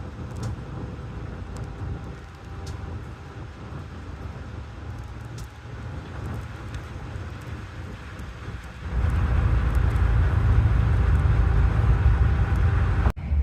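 Steady running noise of a vehicle, low and rumbling. It gets markedly louder about nine seconds in, then breaks off abruptly near the end.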